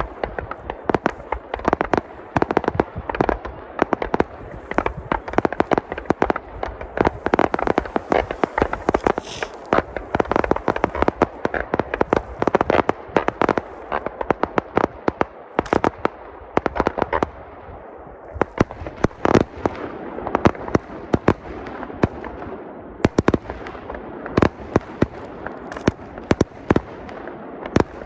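Aerial fireworks display: a dense, unbroken barrage of shell bursts, several bangs a second, over a continuous din.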